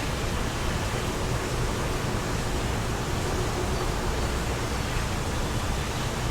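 Steady wind noise, an even rushing with a low, fluctuating rumble underneath.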